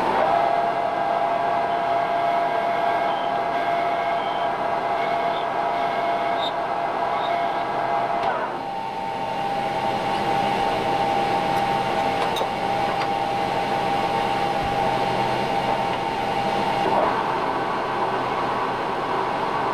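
Metal lathe running with a steady whine over machining noise; the whine steps to a slightly different pitch about eight seconds in.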